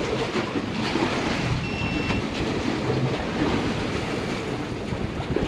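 Wind buffeting the microphone over the wash of water around a small fishing boat at sea: a steady rumbling roar.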